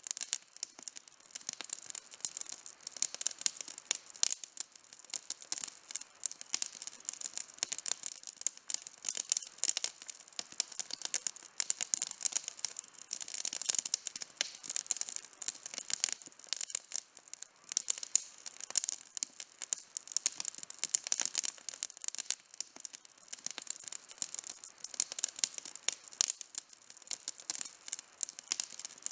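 Wood campfire burning with dense, continuous crackling: many sharp pops and snaps every second.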